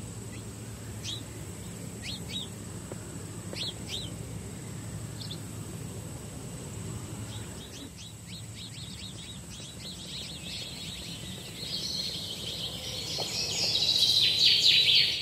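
Birds chirping: scattered short falling chirps, then a fast, dense run of chirps that builds and is loudest just before the end, over a low steady hum that fades out about halfway.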